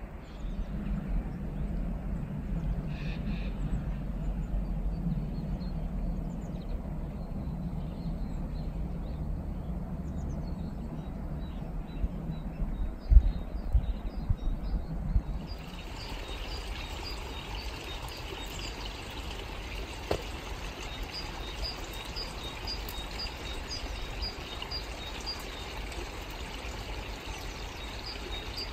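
Outdoor winter ambience. For the first half a low rushing noise runs, with a few low thumps about 13 seconds in. After a sudden change midway a bird repeats a short high call about twice a second over a steady hiss.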